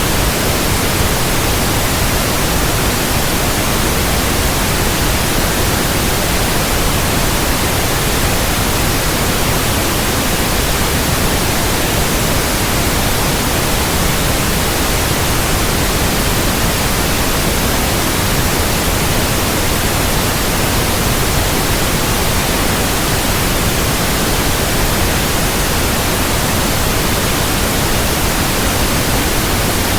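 Steady white noise: an even, unbroken hiss spread across all pitches, unchanging in level.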